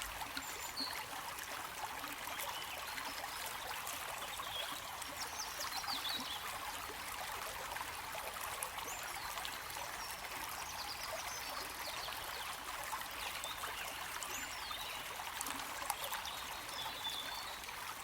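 A stream of running water trickling and burbling steadily, with faint short high chirps scattered through it.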